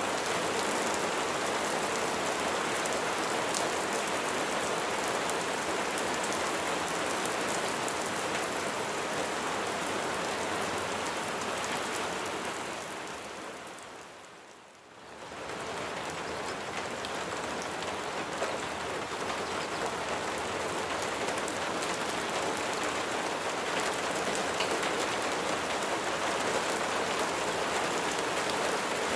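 Steady heavy rain with the patter of individual drops. About halfway through it fades down almost to nothing over a couple of seconds and then swells back, like a loop seam in the recording.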